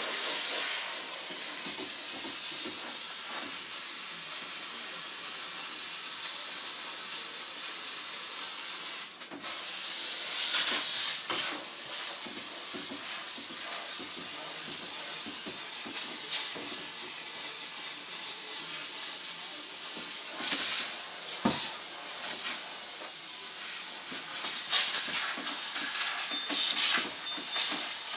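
Steam cleaner jetting steam in a steady high hiss, cutting out briefly about nine seconds in. Scattered knocks and clatter come from the fridge being worked on in the second half.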